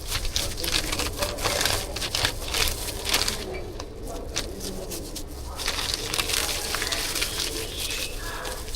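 Rustling and crackling from hands packing food: a run of quick, irregular crinkles and scrapes that eases off for a moment about four seconds in, then picks up again.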